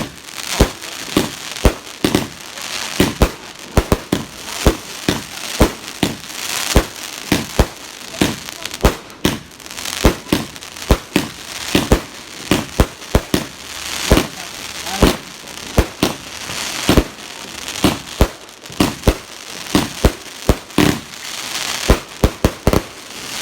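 Fireworks going off in a rapid, unbroken barrage: sharp bangs and cracks, several a second, over a continuous crackling hiss.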